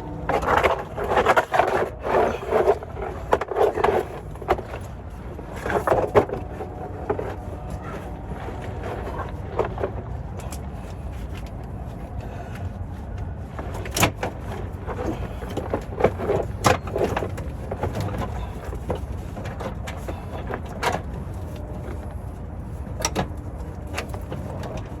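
Scattered sharp metal clanks and knocks of hand tools working on a vehicle's underside to remove a transmission, over a steady low background noise.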